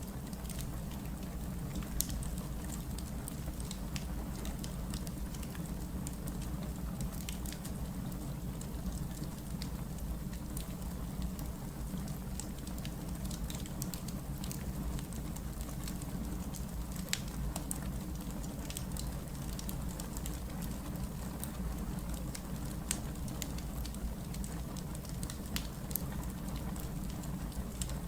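Wood fire crackling: scattered sharp pops and snaps at irregular moments over a steady low rumble.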